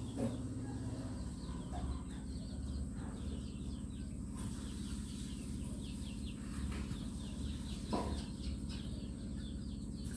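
Birds calling over a steady low hum: many short chirps throughout, with two louder short calls, one right at the start and one about eight seconds in.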